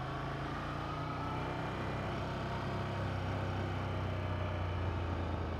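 Ducati 797's air-cooled L-twin engine running at steady low revs while the motorcycle is ridden.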